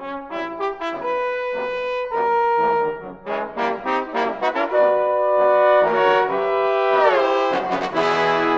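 Trombone ensemble playing: short detached notes give way to held chords. About seven seconds in, the parts slide down in pitch together into a louder chord.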